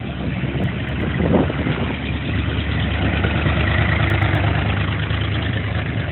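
Car engine idling steadily, with a brief swell in level about a second in.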